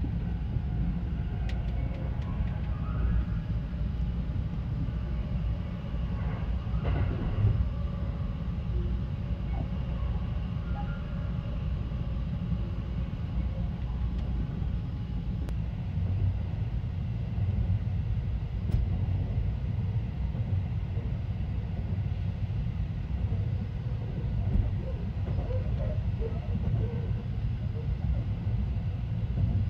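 Sunrise Seto sleeper train, a 285 series electric multiple unit, running steadily with a low rumble, heard from inside its cabin.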